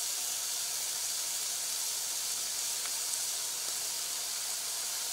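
Minced beef, mushrooms and tomato sauce sizzling steadily in a frying pan: an even frying hiss.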